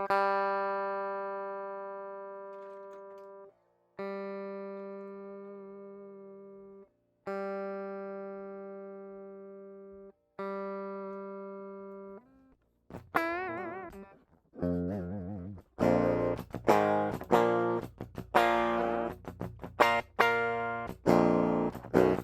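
Solar 27-inch baritone electric guitar with an Evertune bridge, freshly set up and being played as a final check. The same single note is picked four times and left to ring and fade for about three seconds each time before being muted. Then comes a note with vibrato, and from about two-thirds of the way in, fast, low picked riffing.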